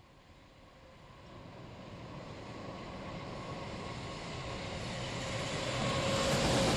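Freight train approaching along the line, its rumble and rail noise growing steadily louder, with a faint steady whine over it.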